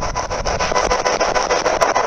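Spirit box radio sweeping the AM band: a steady hiss of static, chopped into rapid pulses as it scans through the stations.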